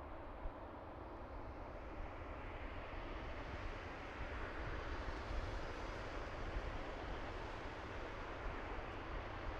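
Boeing 767-300ER jet engines at takeoff power heard from off the airfield: a rushing jet noise that swells over the first few seconds and is loudest about halfway, over a steady low rumble.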